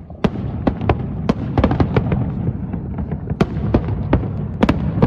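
Aerial fireworks bursting in rapid, irregular succession: a dozen or more sharp bangs over a continuous low rumble, growing louder about a quarter second in.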